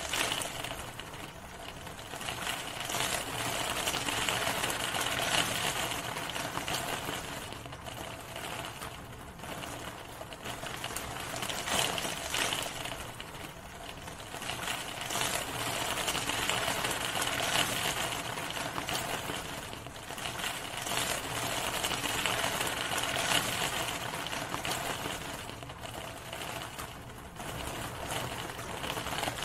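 Steady rain falling, a dense even hiss that swells and eases every few seconds.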